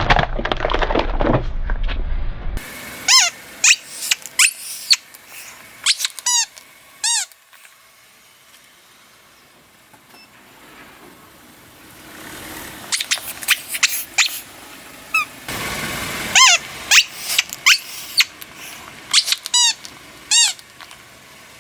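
Rubber squeaky toys being squashed, giving a string of short, high squeaks in two clusters with a quiet gap between them. A low rumble runs under the first couple of seconds.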